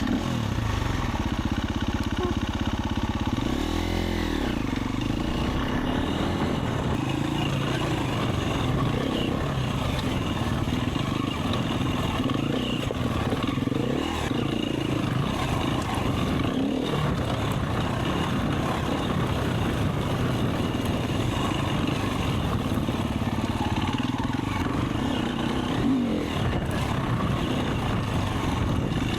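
Enduro dirt bike engine running as the bike is ridden, the revs rising and falling again and again with the throttle.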